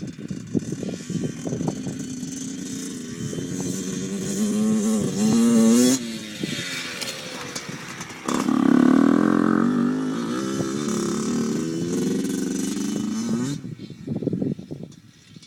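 Two-stroke dirt bike engine revving under throttle. It climbs in pitch and cuts off sharply about six seconds in, then pulls hard and loud again from about eight seconds. It eases off about two seconds before the end, leaving broken, rattly engine noise.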